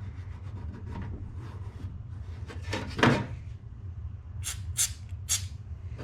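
Handling noises at a car door's window channel as lithium grease is worked into the seals by hand: one loud knock about halfway, then three short sharp scrapes, over a steady low hum.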